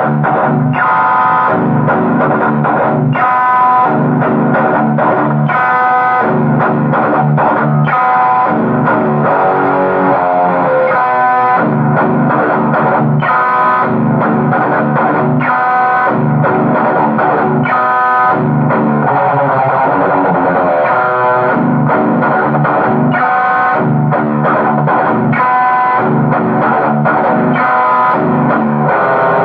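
Guitar music: a plucked guitar playing a riff that repeats every couple of seconds.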